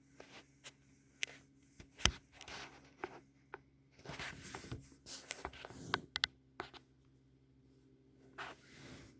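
Scattered sharp clicks and short stretches of rustling or scraping, the loudest a single click about two seconds in, over a faint steady hum.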